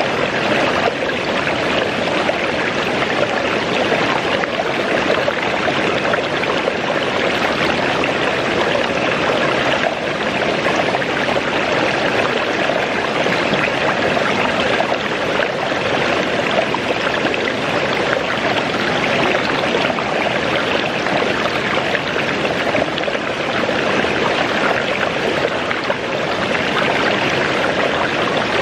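Waterfall and its stream: water falling and rushing in a steady, unbroken hiss.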